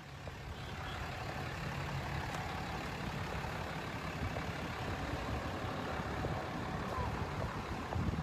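Traffic of cars and trucks rolling past, a steady engine and tyre rumble that swells in the first second.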